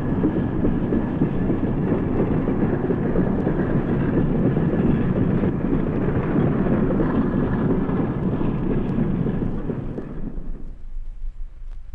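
Steam locomotive running hard, a loud, dense, steady rumble of exhaust and running gear. It dies away quickly about ten and a half seconds in, leaving only a faint low hum.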